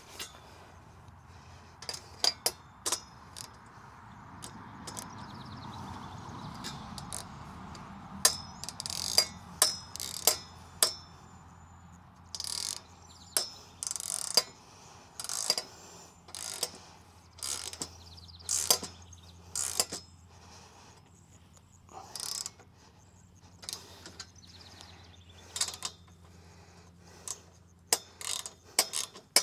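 Ratchet socket wrench clicking in short, irregular runs as the bolts of a metal non-penetrating roof mount are tightened.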